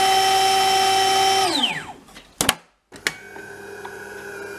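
De'Longhi bean-to-cup coffee machine's grinder motor whirring steadily while running empty, not grinding any beans: the fault that keeps the machine from making coffee. About one and a half seconds in it winds down with a falling whine, a couple of clicks follow, and a quieter steady hum from the machine starts about three seconds in.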